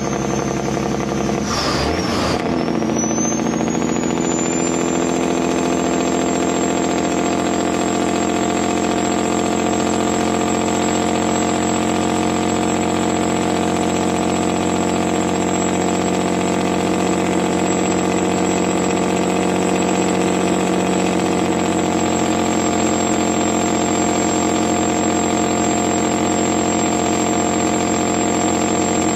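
Truck engine running steadily, with a high whine on top that dips and comes back up about two seconds in.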